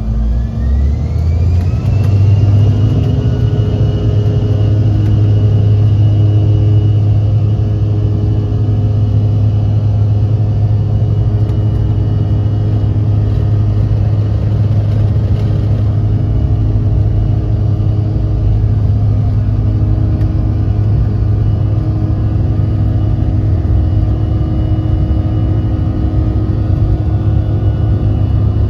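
Airliner engines spooling up to takeoff power: a whine rises over the first two seconds and then holds steady over a deep, continuous rumble through the takeoff roll.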